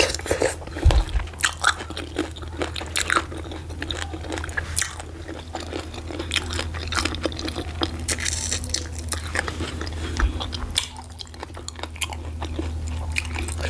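Close-miked chewing and wet mouth smacks of a person eating garri fufu with slimy ogbono soup by hand. Many short clicks and squelches come one after another, over a steady low hum.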